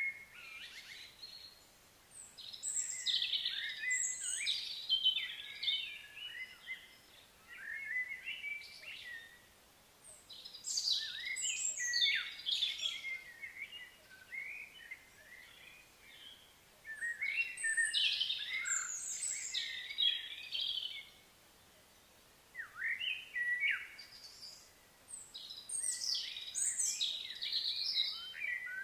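Songbirds singing and chattering in repeated outbursts of several seconds, with short pauses between.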